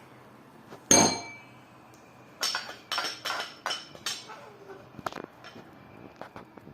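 A spoon clinking and knocking against a dish while scooping out sour cream: one loud, sharp, ringing clink about a second in, then a quick run of knocks and scrapes, and a few light taps near the end.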